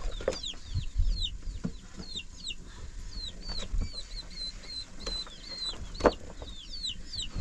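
Chickens calling: many short, high, falling chirps in quick succession, with a few sharp knocks among them.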